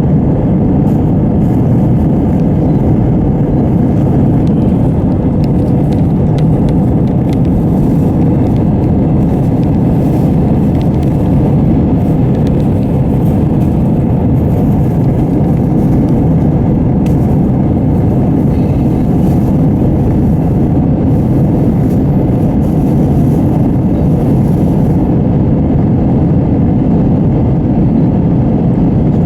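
Airbus A320 cabin noise: the jet engines and rushing air make a loud, steady, even sound that sits low in pitch and does not change.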